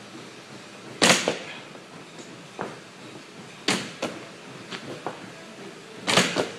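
Irregular sharp smacks from a hand-eye coordination drill, several coming as quick double hits, with the loudest about a second in and near the end.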